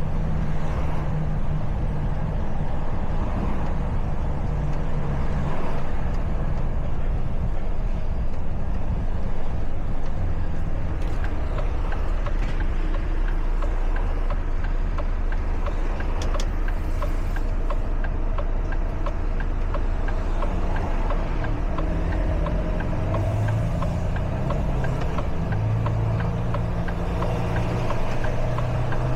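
Truck engine running under way, with steady road and tyre rumble; the engine note shifts near the end. A single sharp click about two-thirds of the way through.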